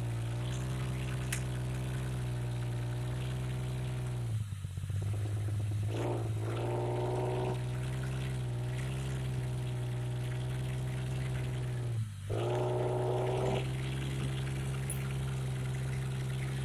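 Jeep Grand Cherokee engine running steadily under load as it crawls against a rock ledge. It dips briefly about four and twelve seconds in, each time followed by a second or two of harder throttle.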